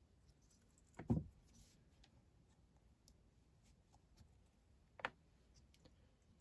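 Two short knocks, the first about a second in and the louder, the second about five seconds in, with a few faint clicks between: tools or small parts being handled at the workbench.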